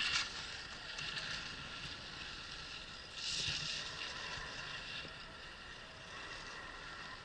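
Skis sliding and scraping over snow, an even hiss with a louder scraping swell about three seconds in.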